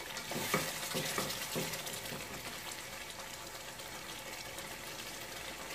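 Chicken curry with capsicum and onion sizzling in a pot as it is fried, stirred with a slotted plastic spatula: a few stirring strokes in the first two seconds, then a steady sizzle.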